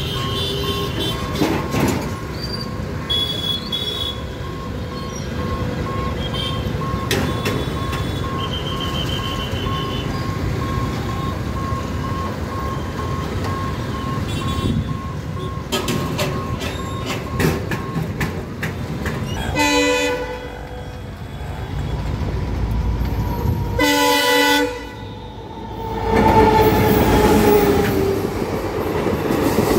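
A train horn blows twice, then an Indian Railways passenger train passes over the level crossing, its coaches rolling by loudly with clattering wheels. Earlier, a high beep repeats steadily under the traffic noise.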